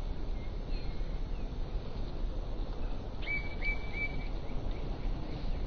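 A small songbird chirps three times in quick succession about three seconds in, with fainter chirps near the start, over a steady low rumble.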